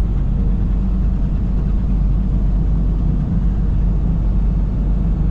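Steady engine and road rumble from a semi truck being driven, heard from inside the cab.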